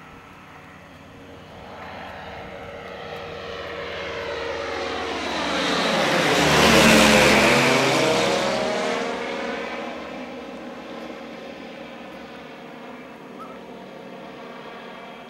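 Light aeroplane making a low pass: its engine sound grows louder, peaks about seven seconds in as it goes by, then fades away.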